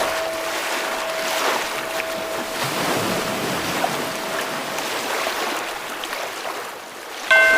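Ocean waves washing in swells, with a bell's ringing tone slowly fading out; near the end a bell is struck again and rings with several overtones.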